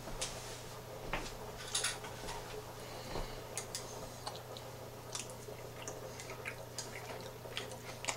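Quiet chewing and scattered small clicks of a plastic spoon on a plate while a spoonful of sauce is tasted, over a low steady hum.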